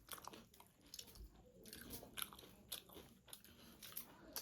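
Faint close-up chewing of a mouthful of rice and chicken curry: irregular soft wet mouth clicks and smacks.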